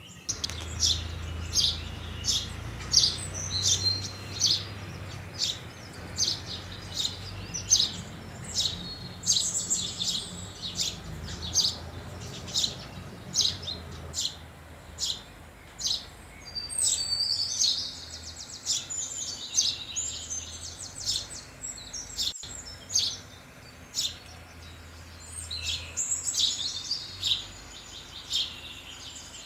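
A flock of house sparrows chirping: a steady string of short, sharp cheeps, with busier spells of overlapping chatter partway through and near the end. A faint low hum runs underneath.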